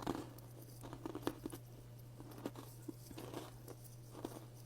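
Close-up crunching and chewing of crunchy dried candy, in short irregular crunches, over a faint steady low hum.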